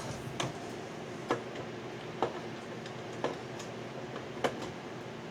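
Regular sharp ticks, about one a second, over a low steady hum.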